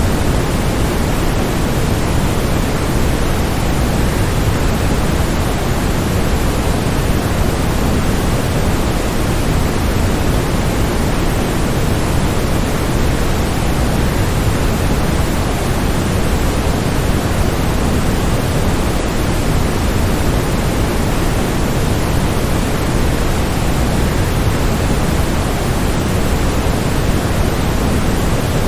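Waterfall's steady, unbroken rush of falling water, heaviest in the low end, with no change in level.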